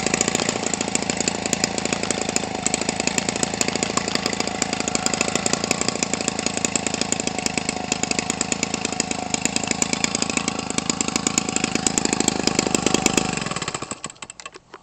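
Homelite 25cc two-stroke engine, converted from a string trimmer for a model airplane, running steadily with a rapid buzzing exhaust note, then winding down and stopping near the end.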